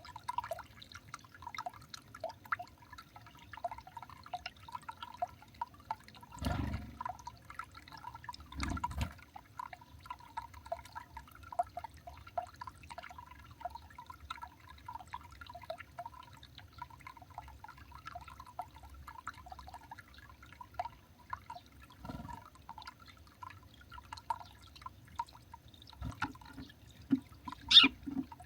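Irregular dripping of water, many small plinks, with a few dull thumps. Near the end comes a brief, brighter high sound.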